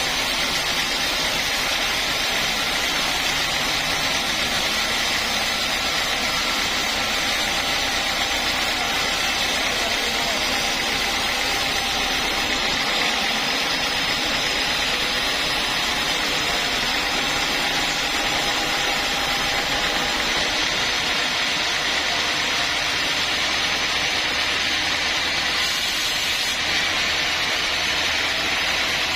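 Sawmill machinery running steadily: an even hiss with a few steady tones underneath, at a constant level with no breaks.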